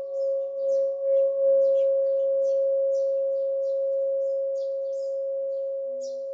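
Tibetan singing bowl ringing with a wavering, pulsing tone that swells over the first second and a half, then holds and slowly fades. Small birds chirp in short high calls throughout.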